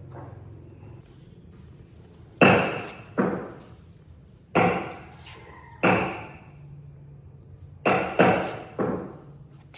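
Seven sharp knocks at uneven intervals, each dying away over about half a second; the loudest is a little over two seconds in, and the last three come close together near the end.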